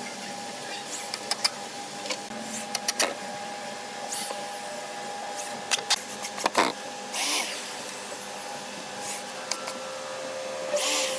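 Workshop sounds: a small machine humming steadily, with scattered sharp clicks and knocks and two short hissing bursts, one about seven seconds in and one near the end.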